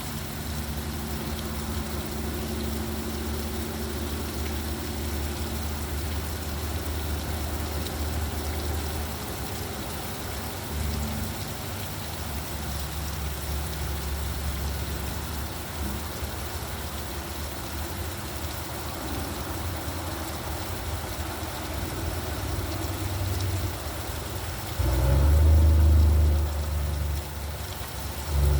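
Steady rain with road traffic: the low rumble of car engines runs under the rain throughout. A louder low rumble swells up near the end.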